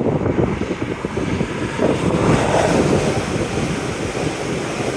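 Great Western Railway Intercity Express Train (IET) passing at speed: a steady rush of wheels and air that swells about two seconds in, with wind buffeting the microphone.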